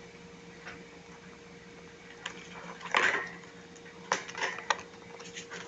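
Hamsters scuffling over a cookie: scattered clicks, taps and scrapes, the loudest about three seconds in, over a faint steady hum.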